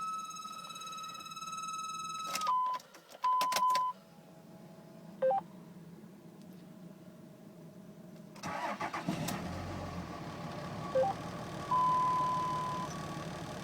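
Dashboard warning chimes and beeps in a 2005 Dodge Ram 2500, then, about two-thirds of the way in, the starter cranks and the 5.9-litre Cummins inline-six turbo-diesel fires on a cold start and settles into a steady idle, with another short beep and a chime after it catches.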